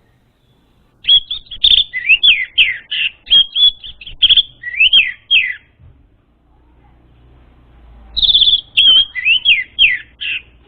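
Orange-headed thrush singing two quick phrases of varied whistled notes, rising and falling sweeps with a short pause between them. The song is played as a lure to get untrained captive thrushes to sing.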